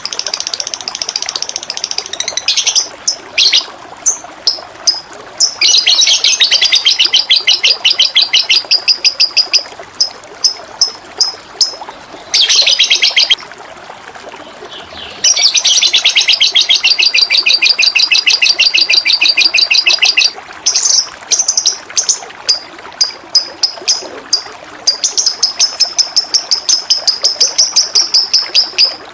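A songbird singing loud, fast trills and sharp separate chirps. The trills come in runs of several seconds each, over a steady trickle of running water.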